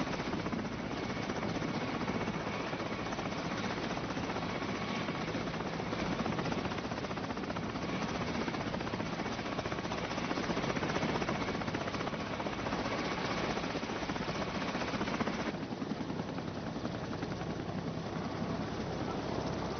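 Helicopter running steadily, a dense rotor-and-engine rumble with a faint high whine. About three-quarters of the way through the sound turns suddenly duller as its upper range drops away.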